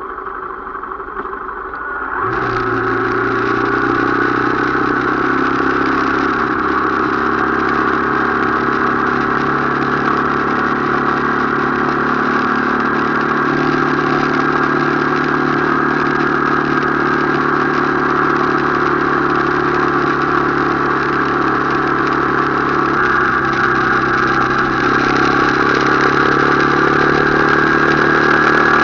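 Motorcycle engine running steadily during a ride. It gets louder about two seconds in, and its pitch shifts slightly a couple of times.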